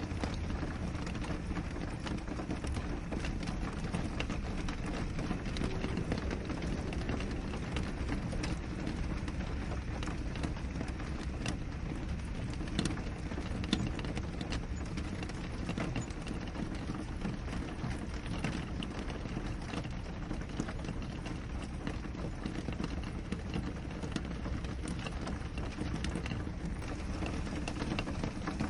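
Steady rain on a window, a constant low rush with many small drop ticks scattered through it.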